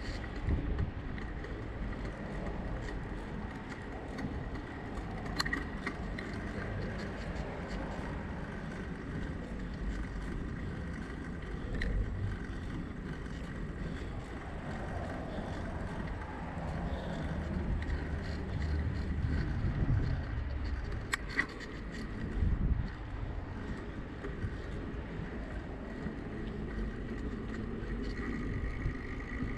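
Steady wind and road rumble from riding a bicycle, with a few sharp clicks and knocks.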